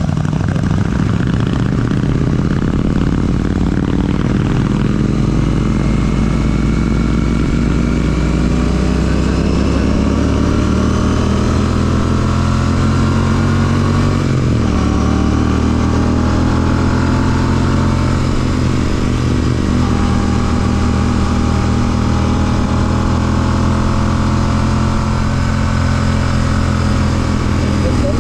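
Royal Enfield Classic 650's parallel-twin engine, fitted with an aftermarket Ngage exhaust, running steadily while riding. The engine note dips briefly about halfway through, then carries on.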